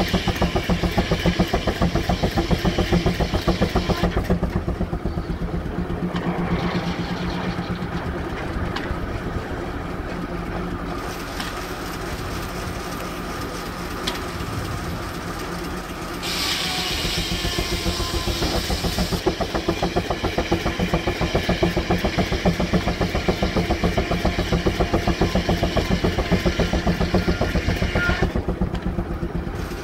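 Steam traction engine running with a fast, even exhaust beat while it drives the sawmill, with a stretch of hiss a little past halfway.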